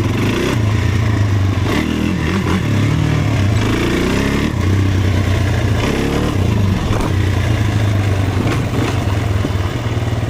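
Off-road vehicle engine running under riding, its revs rising and falling repeatedly as the throttle is worked.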